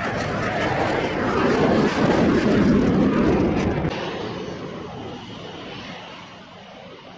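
F-15E Strike Eagle's twin jet engines heard as the jet passes: the noise builds to a peak about two to three seconds in, then fades away.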